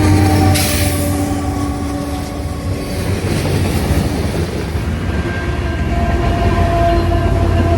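Train running close by: a steady low rumble with a few held tones over it that shift to new pitches about five seconds in, and a short hiss about half a second in.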